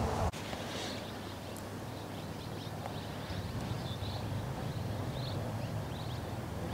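Low, steady wind rumble with faint, scattered short high chirps over it.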